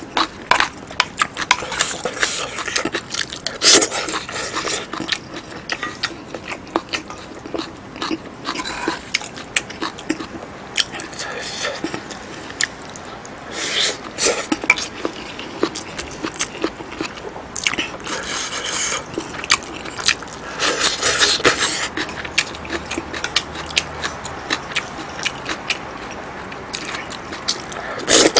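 Close-miked eating: wet chewing of curry rice with abalone and noodles, with many small clicks and scrapes of a wooden spoon against the bowl and a few longer noisy mouthfuls.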